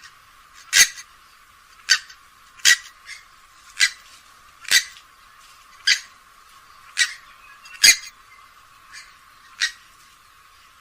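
Grey-headed swamphen giving a series of short, sharp calls, about one a second, some louder than others.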